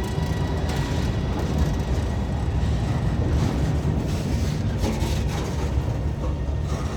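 A train running past or along the track: a steady, heavy rumble.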